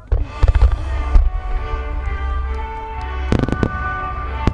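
Fireworks shells bursting in a series of loud bangs: a cluster just after the start, one about a second in, and another cluster past three seconds, over music with long held notes.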